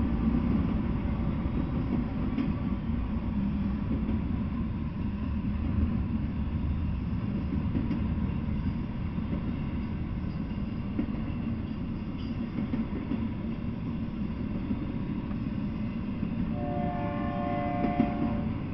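Intermodal freight train of double-stack container cars rolling past, a steady low rumble of steel wheels on rail. Near the end a train horn sounds one chord for about two seconds.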